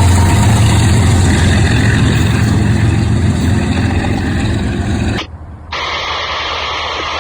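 Heavy diesel locomotive engine running loud with a deep steady rumble and mechanical noise, cut off abruptly about five seconds in, where a quieter, different background takes over.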